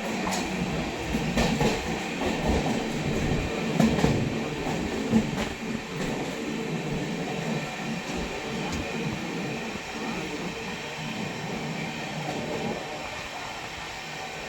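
Poorva Superfast Express train running on the track: a continuous rumble of wheels on rails with clattering and a few sharp knocks in the first half, settling into a smoother, slightly quieter run.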